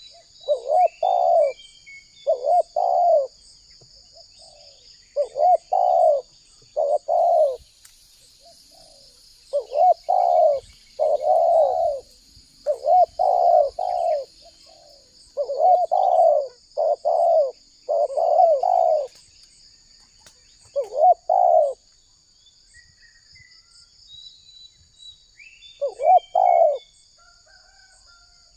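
Spotted dove (tekukur) calling: repeated phrases of two or three short, low coos with brief pauses between them. Faint high chirps of small birds and a steady high insect drone run underneath.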